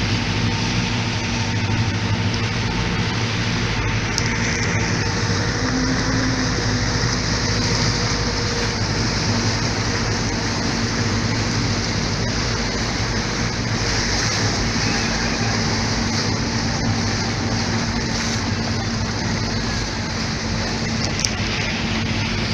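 Motorboat engine running steadily, with a constant rushing noise over it.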